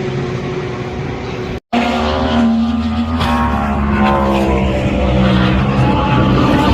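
Race car engines running hard on track, their pitch rising and falling as cars accelerate and pass. The sound cuts out completely for a split second about a second and a half in.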